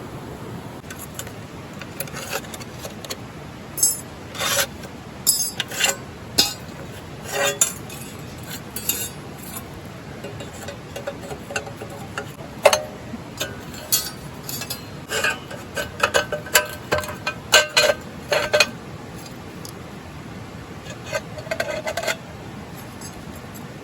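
Metal cookware and utensils clinking, scraping and knocking in irregular bursts, some with a short ring, over a steady hiss.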